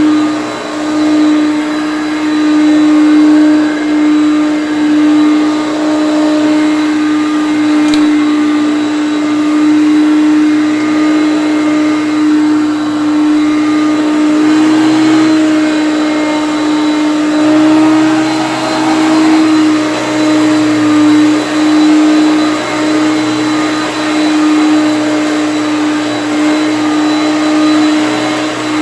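Hoover Concept One upright vacuum cleaner running steadily: a loud, even motor whine over airflow noise, its pitch rising slightly a couple of times about halfway through.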